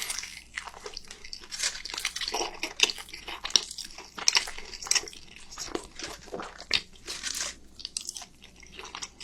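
Close-up biting and chewing of a beef roll wrapped in green onion pancake, with irregular crisp crunching strokes.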